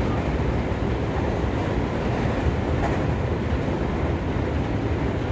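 Seibu 20000 series electric commuter train running steadily, heard from inside the passenger car: an even low rumble of wheels on rails.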